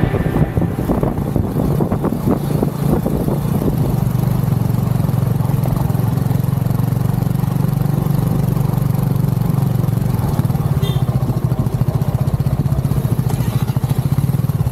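Motorcycle engine running steadily with a fast, even low pulse.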